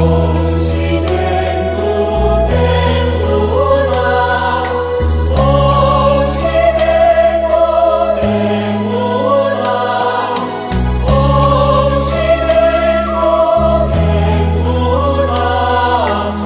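Buddhist devotional hymn in praise of Guanyin: voices sing a slow melody over long, held low accompaniment notes that change every few seconds, with a light, steady beat about twice a second.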